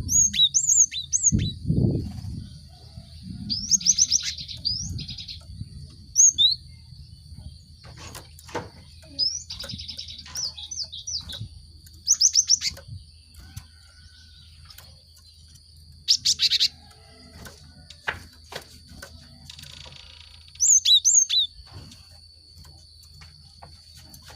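Cinereous tit (gelatik batu) calling in short bursts of rapid, high chirps, about seven bursts spread through, with pauses of a few seconds between them. A faint steady high tone and a low hum run underneath.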